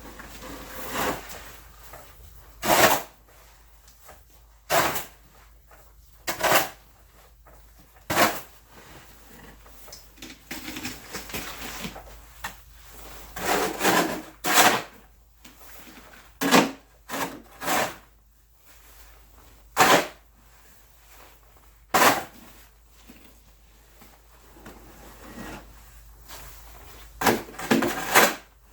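Snow shovel scraping and knocking on the driveway in short, irregular strokes, a dozen or so spaced one to three seconds apart.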